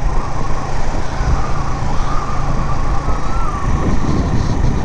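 Suzuki GS150 single-cylinder motorcycle riding at road speed: its engine runs steadily under heavy wind rumble on the microphone, with a wavering thin tone near the middle of the range.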